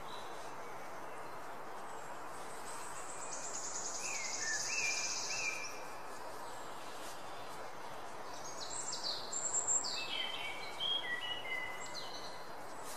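Birdsong over a steady background hiss. A fast, high trill runs from about three to five and a half seconds in, and a run of short, falling chirps comes from about eight to twelve seconds in.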